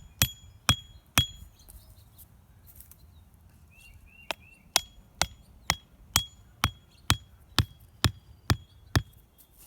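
Hammer blows driving pegs in, a steady beat of about two strikes a second, the first few with a short metallic ring. The strikes stop a little after a second in and start again after a pause of about three seconds.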